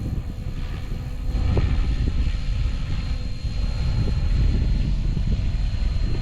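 Gusting wind buffeting the microphone, heaviest from about a second in. Under it runs a faint, steady high whine from a small electric radio-controlled helicopter, an SAB Goblin 380, in flight.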